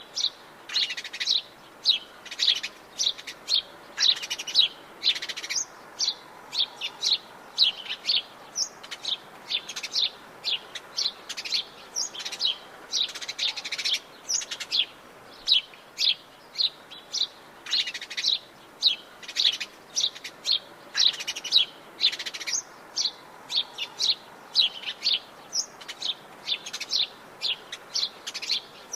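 Birds chirping and singing in a forest, many quick high chirps following one another almost continuously, over a faint steady background hiss.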